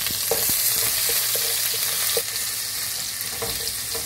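Chopped ginger and green chillies sizzling in hot coconut oil with mustard seeds, stirred with a wooden spatula in a non-stick pan: a steady frying hiss with scattered short clicks.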